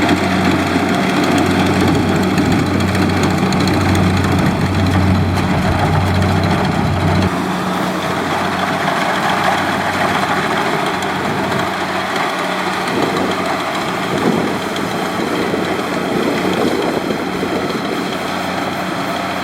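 Kubota DC70 Plus combine harvester's diesel engine running steadily with a low hum. About seven seconds in, the deepest part of the hum drops out and the sound gets a little quieter, leaving a steady machine noise.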